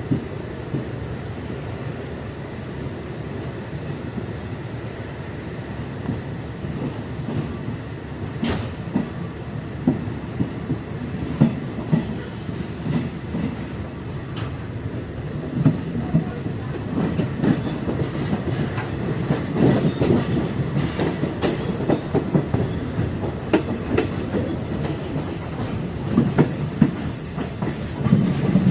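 Passenger train rolling along the track, heard from a passenger's seat: a steady rumble with wheels clacking over the rails and the carriage rattling, growing louder and busier about halfway through.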